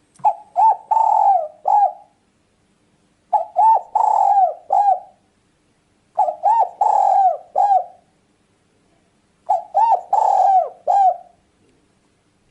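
Spotted dove cooing: four phrases about three seconds apart, each a few short coos around a longer, drawn-out middle note.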